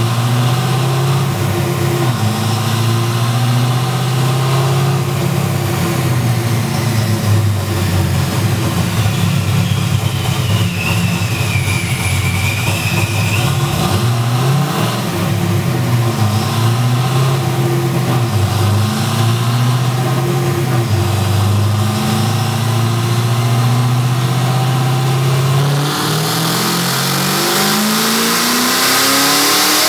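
SN95 Ford Mustang's engine running on a chassis dynamometer, holding a low, uneven speed. Near the end the revs begin climbing steadily, as at the start of a dyno pull.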